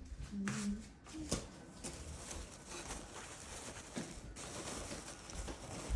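Packing noises: scattered light taps, clicks and rustling as items are handled, with a brief low tone about half a second in.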